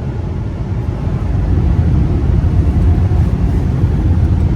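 Car wash air dryers blowing on the car, heard from inside the cabin: a low rushing rumble that grows louder about a second and a half in.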